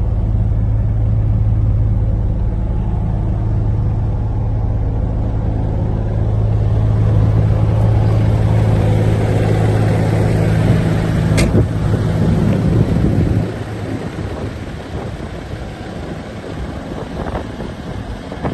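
MAN TGS truck's D2066 six-cylinder diesel engine idling steadily. A sharp click comes about eleven seconds in, and the engine shuts off about two seconds later.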